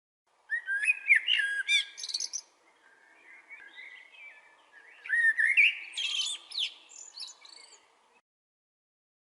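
A songbird singing two long, fast phrases of warbled and whistled notes a few seconds apart, over a faint steady background hiss. The sound starts about half a second in and cuts off abruptly near the end.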